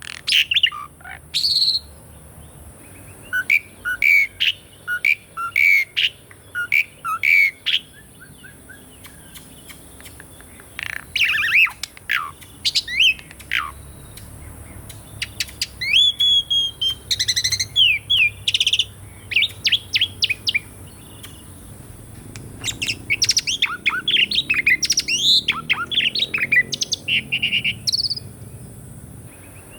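Asian pied starling (jalak suren) singing: phrases of sharp chirps, gliding whistles and rapid rattling notes, broken by short pauses.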